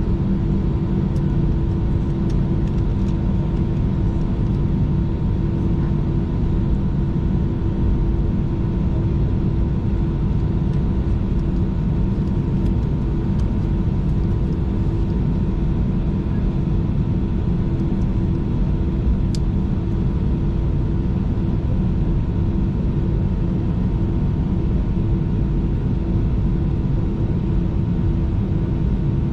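Steady cabin noise of an Airbus A319 taxiing: a low, even rumble with a steady hum and a fainter, higher whine, and a few faint ticks.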